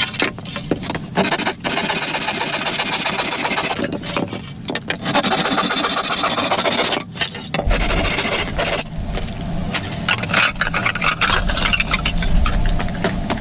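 Hand-work scraping and rasping in several long passes with short breaks, with a low rumble joining in past the middle.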